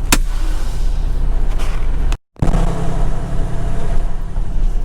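Semi truck's diesel engine and road noise heard from inside the cab, a steady low rumble, broken by a moment of silence about two seconds in.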